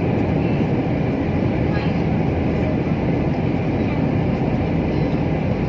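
Steady airliner cabin noise: the engines and rushing air heard from inside the passenger cabin as a dense, even rumble.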